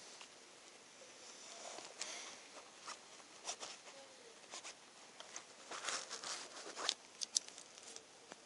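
Soft rustling with scattered light clicks and taps, busiest around six to seven seconds in.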